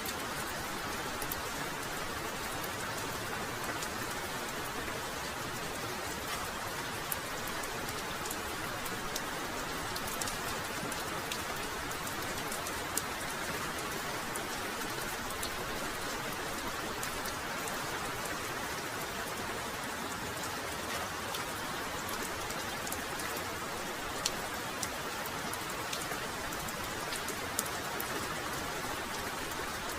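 Heavy rain pouring steadily, with a dense patter of individual drops and a few sharper drop impacts now and then.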